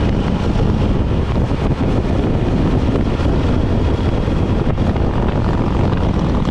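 Motorcycle riding at speed: a steady rush of wind over the microphone with the engine's low drone underneath.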